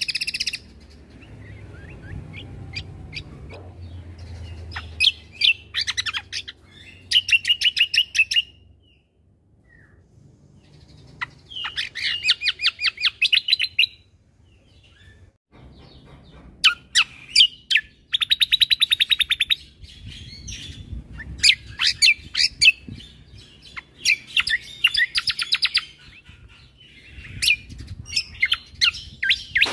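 Cucak kombo (kecial kombo) singing: repeated bursts of rapid chattering trills, each a second or two long, separated by short pauses.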